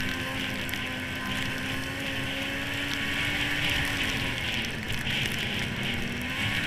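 Yamaha SRX 700 snowmobile's three-cylinder two-stroke engine running under way, with a steady hiss of wind and track over it. The engine note drops about four and a half seconds in, then picks back up near the end.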